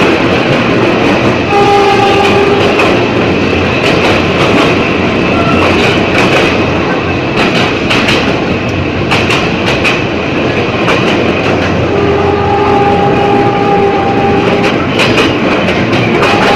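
Ex-JR 203 series electric multiple unit running on Philippine National Railways track: loud, steady running noise with clicks from the wheels over rail joints. A train horn sounds twice, briefly about a second and a half in and longer about twelve seconds in.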